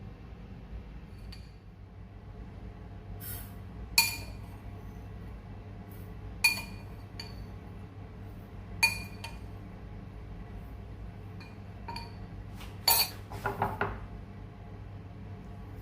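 Dishes clinking: three sharp, ringing clinks a couple of seconds apart, then a quick run of clinks near the end.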